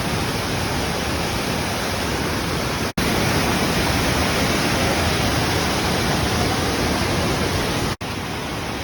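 A powerful mountain waterfall, a steady, loud rush of falling water. It breaks off for an instant about three seconds in and again near the end, and is louder between the two breaks.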